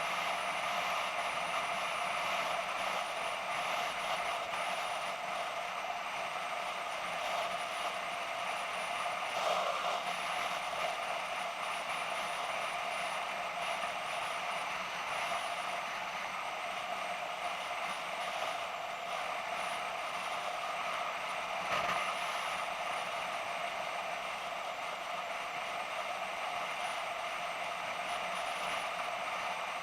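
BMW F650GS motorcycle under way at a steady speed: a constant blend of engine and wind noise, with a couple of brief knocks about ten and twenty-two seconds in.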